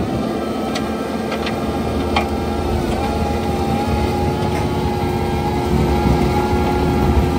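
Bobcat T86 track loader's diesel engine running under load while its Coneteks forestry mulcher grinds stumps and roots, a steady whine over the engine. A few sharp cracks in the first couple of seconds as the rotor teeth hit wood.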